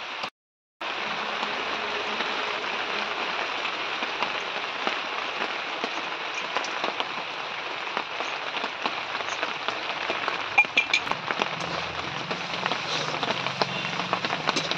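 Spiced prawn-and-potato filling sizzling and crackling in an aluminium kadai over a wood-fired clay stove, after a brief silent gap at the start. In the second half there are a few scrapes and clinks of a metal spatula stirring it.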